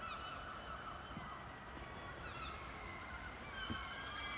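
Faint outdoor background noise with a few faint, short bird chirps in the distance.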